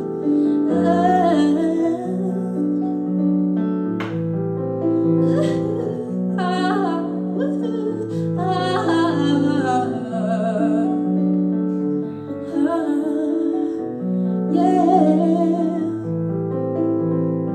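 Live pop ballad: a woman's voice sings short wordless, wavering runs over steady keyboard chords.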